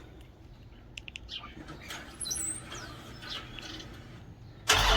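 Faint bird chirps and a few light clicks, then near the end a car engine suddenly cranks and fires on a cold start, much louder.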